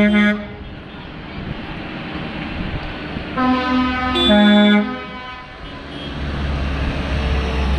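Vehicle horn sounding in loud blasts whose pitch steps between notes, once at the start and again for about a second and a half midway, over the low rumble of traffic.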